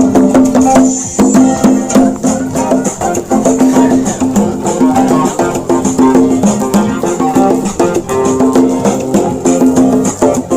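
Live music played by musicians: plucked strings with a shaker and hand percussion keeping a steady, busy rhythm.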